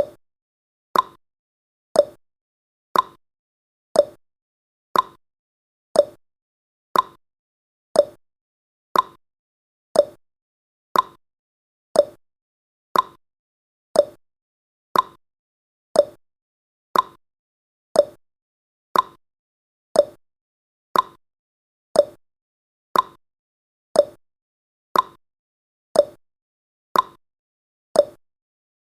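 Clock-style ticking sound effect marking each second of a countdown timer: one short sharp tick every second, alternating slightly higher and lower in pitch like a tick-tock, with silence between.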